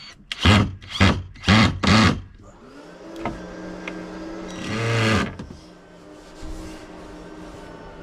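Hand tool rasping or sawing on wood: four quick, loud strokes about two a second, then a single longer stroke a few seconds later.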